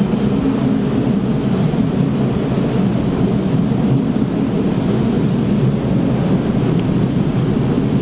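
A train running through the station, a steady, loud rolling noise without clear clicks or tones.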